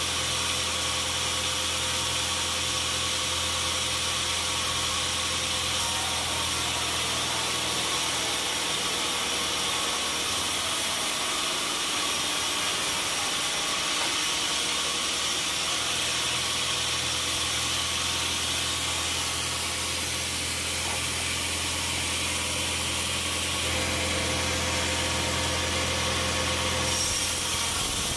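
Sawmill machinery running steadily: a low engine hum under a constant high hiss. The hum drops away for a few seconds around the middle, then comes back.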